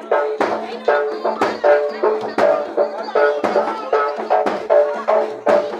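Live jaranan accompaniment from a gamelan-style ensemble: drums and pitched gongs struck in a steady beat about two and a half times a second, over a low tone held throughout.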